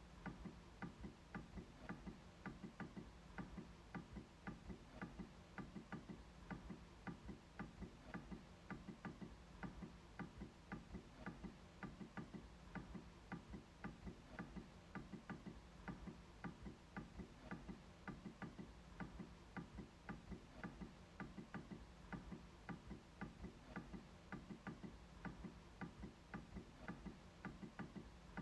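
MacBook trackpad being clicked over and over, a faint, steady run of sharp clicks at about three a second.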